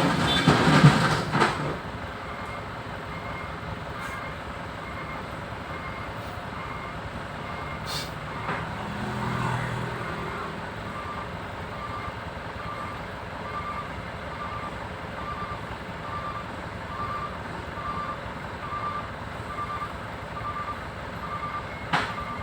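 A vehicle's reversing alarm beeping steadily, about one to two beeps a second, over the running of heavy vehicles. It is preceded by a loud jumble of noise in the first second or so, and there is a sharp knock about eight seconds in and another near the end.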